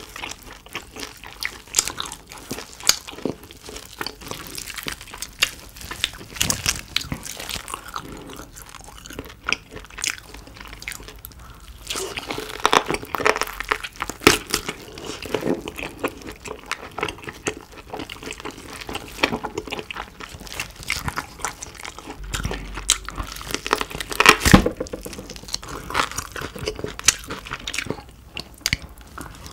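Close-miked biting and chewing of roast pork knuckle (Schweinshaxe): repeated crunches of the crispy skin mixed with chewing of the meat. The loudest crunch comes about two-thirds of the way through.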